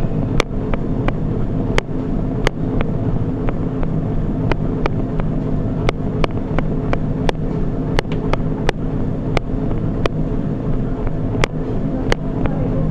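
Running footfalls striking a treadmill belt, two to three sharp strikes a second, over a steady machine hum from the running treadmill.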